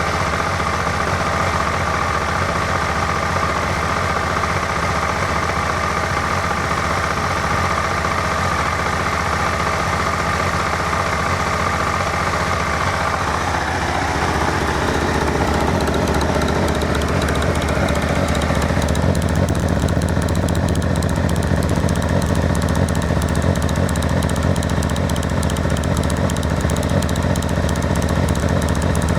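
Triumph RS motorcycle's inline three-cylinder engine idling steadily. Its tone changes about halfway through and it is a little louder in the later part.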